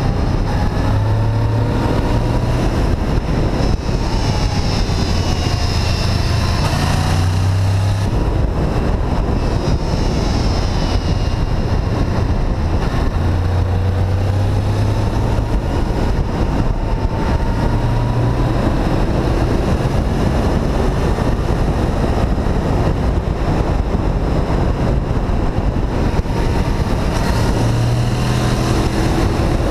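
Honda VFR800 V-Tec's V4 engine running under way, its pitch rising and falling again and again as the revs climb and drop between gear changes, over a steady rush of noise.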